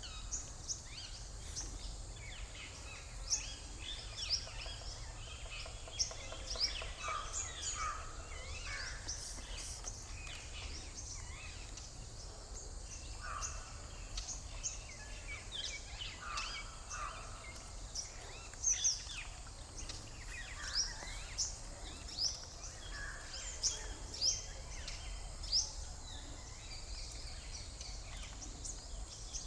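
Birds calling: many short chirps and call notes scattered throughout, over a steady low rumble and a faint steady high hiss.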